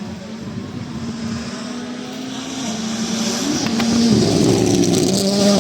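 Rally car coming closer at speed on the stage, its engine note stepping up and down with gear changes and getting louder. A few sharp cracks and a rising hiss of tyres on gravel come in over the second half as it nears.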